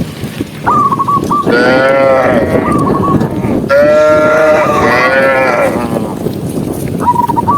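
Two long, wavering calls from livestock, the second one longer. Short, high warbling whistles come just before the first call and again near the end.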